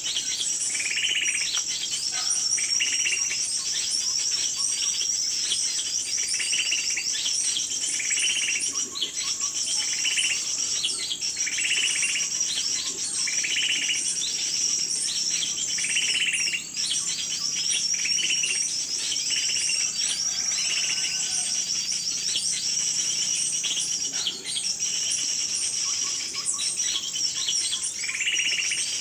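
Small birds chirping: a dense, high-pitched twittering full of rapid trills, with a lower call repeated every one and a half to two seconds.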